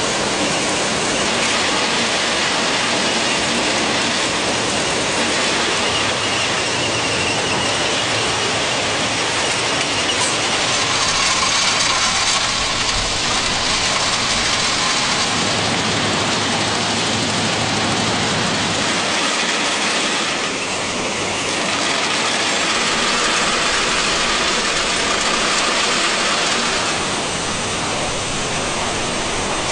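Train rolling steadily on the rails: a continuous dense rumble of wheels and cars, with faint thin squeal tones at times.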